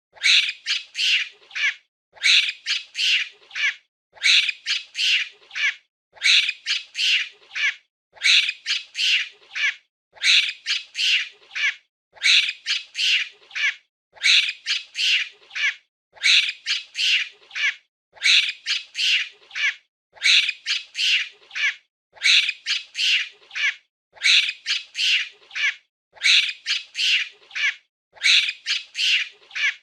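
Monkey calling: a burst of several short, high-pitched calls, then a short pause, repeating about every two seconds as the same loop over and over.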